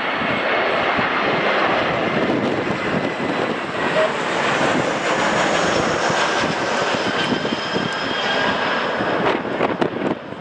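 Aircraft engines passing close by: a loud steady rush with faint high whines that fall slightly in pitch. Gusty wind crackles on the microphone near the end.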